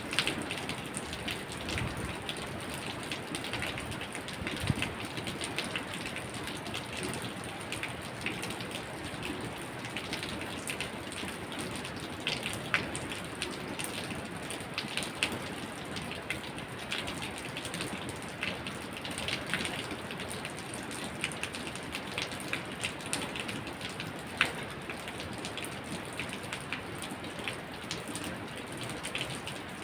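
Steady rain falling, with many individual drops landing close by as scattered sharp ticks over the constant hiss of the downpour.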